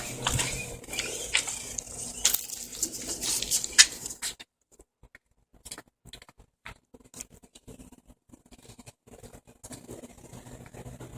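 Radio-controlled scale crawler truck's tyres and plastic body clicking, tapping and scraping over hard surfaces as it climbs, busy for about four seconds, then much quieter with only scattered faint ticks.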